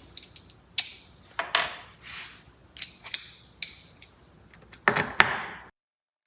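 A T20 Torx driver working screws on a steering wheel, a series of sharp clicks and short scrapes of metal on the screws and trim, with a quick run of repeated clicks about three seconds in. The sound cuts off suddenly near the end.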